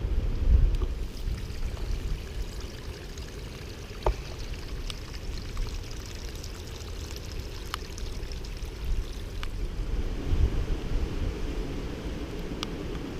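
Wind buffeting the microphone over a steady rush of water from the river in flood, with a few faint clicks.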